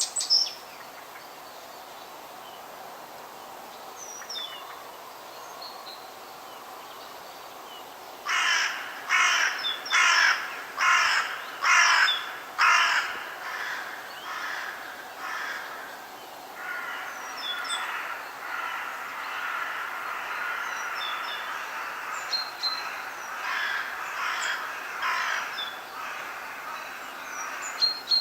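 Harsh, caw-like bird calls: a run of about seven loud calls in quick succession about eight seconds in, then a longer stretch of softer calls overlapping one another. Small birds chirp faintly over a steady background hiss.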